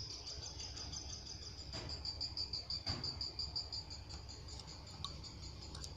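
Bird-training (masteran) recording played from a mobile phone's speaker: a continuous, high, rapidly pulsing cricket-like trill for the young lovebirds to learn.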